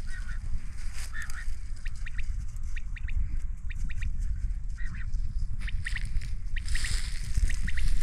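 Birds calling in short, sharp chirps, often in quick pairs and threes, over a steady low rumble.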